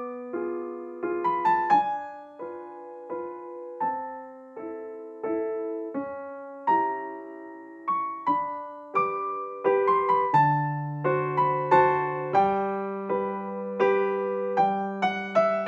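Gentle background piano music: a melody of single struck notes over soft chords at an even pace, with lower bass notes joining about ten seconds in.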